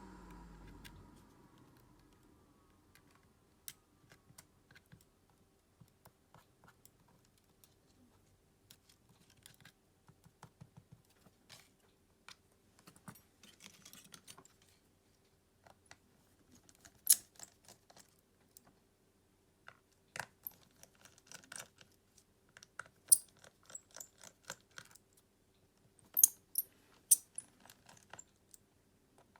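Irregular small clicks, taps and scrapes of hand tools working on the plastic and metal parts of a Xiaomi Redmi 10 5G smartphone as it is taken apart. The clicks are sparse and faint at first, then louder and sharper from about halfway through.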